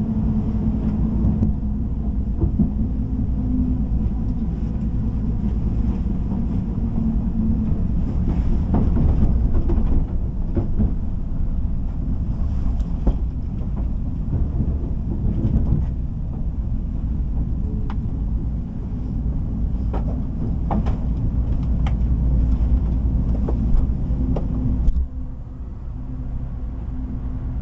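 A train running along the track, heard from inside a carriage: a steady low rumble with scattered clicks and clunks as the wheels pass over rail joints and points. It turns quieter near the end.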